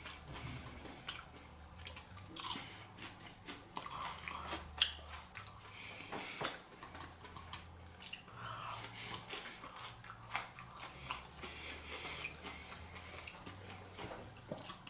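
Close-up chewing and biting of food, with irregular crunches and wet mouth sounds.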